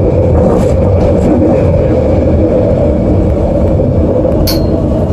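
SkyTrain Expo Line train running, heard from inside the car as a loud, steady low rumble as it comes out of the tunnel along the station platform. A brief sharp high-pitched sound cuts in about four and a half seconds in.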